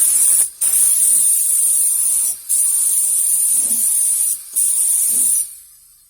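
Paint sprayer hissing as paint is sprayed onto a car body, in four long bursts with short pauses between them, the last stopping about a second before the end.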